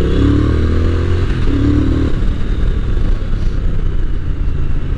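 Triumph Speed Twin 1200's parallel-twin engine running on the move, its note sagging slightly over the first two seconds, over a steady rush of road and wind noise.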